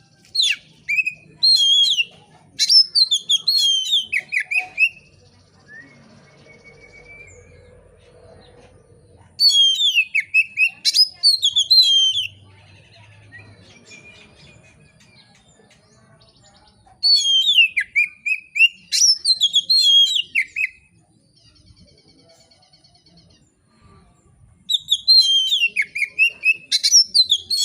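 Oriental magpie-robin (kacer) singing loud, full song in four bouts of rapid, sweeping whistled phrases, each a few seconds long, with pauses of several seconds between them.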